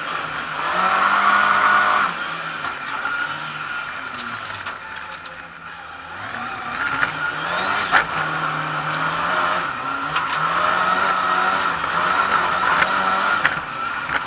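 Lada 2101's four-cylinder engine heard from inside the cabin under hard rally driving, revving high and falling away again with gear changes and lifts, dropping off about six seconds in before building again. Sharp knocks and rattles come through, the loudest about eight seconds in.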